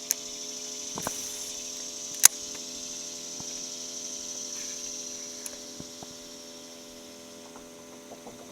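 Electric trolling motor running with a steady hum. A sharp click about two seconds in.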